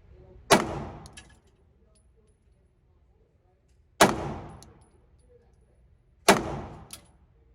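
Three 9mm pistol shots from a Glock 19, fired slowly and deliberately a few seconds apart, each followed by a short echoing tail.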